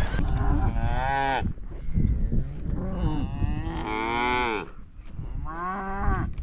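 Cattle mooing: three drawn-out calls, the middle one the longest and loudest.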